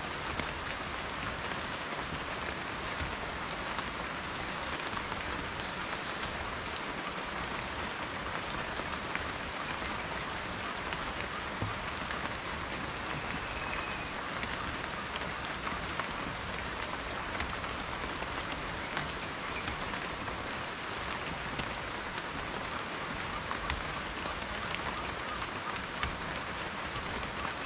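Steady rain falling on a surface, a dense even hiss with individual raindrops ticking through it.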